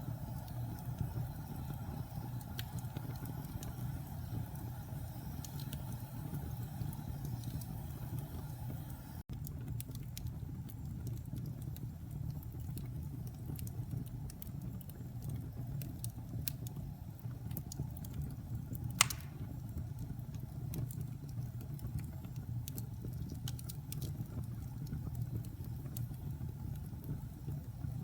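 Wood fire in a fireplace burning with a steady low rumble and scattered small crackles, and one sharp, louder pop about two-thirds of the way through.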